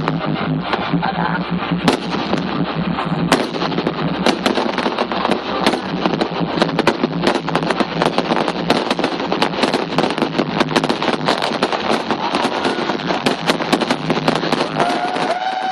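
Fireworks display crackling: a dense, unbroken stream of rapid sharp pops and crackles. A held pitched tone, like a horn, comes in near the end.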